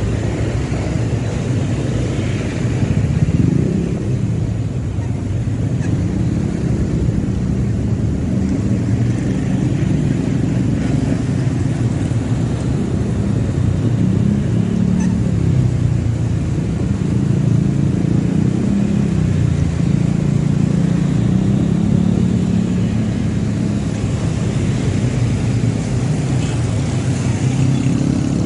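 Motorcycle engine running while riding, its pitch rising and falling several times with changes in speed, over steady wind and road noise.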